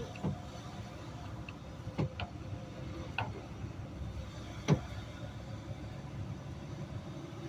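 Garbage truck engine running steadily, with a few sharp knocks or rattles over it, the loudest about five seconds in.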